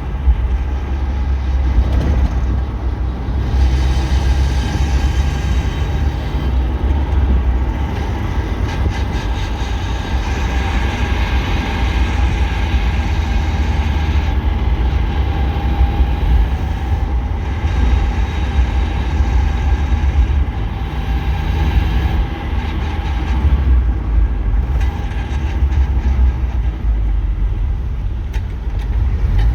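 1993 Mazda Miata driving, heard from inside the cabin: a steady low drone of engine, drivetrain and road with a wavering mid-pitched tone over it, with extra hiss from about a third of the way in to just past halfway. Its grinding noise on deceleration, which the owner places in front of the shifter and suspects in the driveshaft, power plant frame or clutch.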